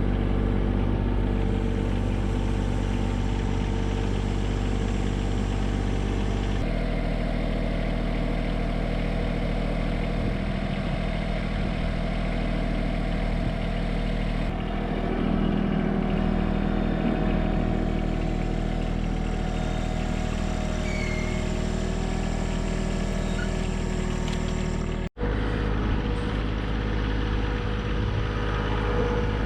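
Small John Deere subcompact tractor engine running steadily at working speed, its pitch and tone shifting abruptly a few times.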